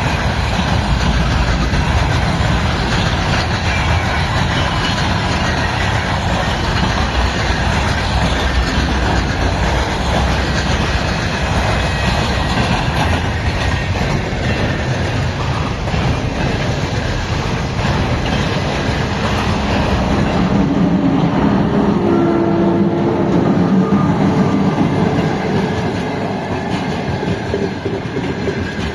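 Freight train wagons rolling past at speed, their wheels clattering steadily over the rails.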